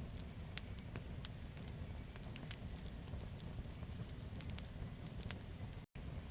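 Campfire burning: a steady low rumble of flames with irregular sharp crackles and pops of burning wood. The sound cuts out for an instant near the end.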